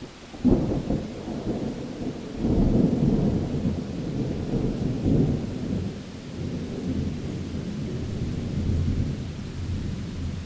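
Thunder over steady rain: a sharp crack about half a second in, then a long low rolling rumble that swells again a couple of seconds later and slowly dies away near the end.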